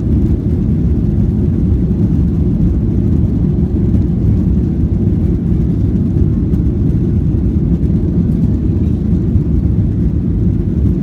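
Aeroplane engines running with a steady, even low rumble, no rise in pitch or level.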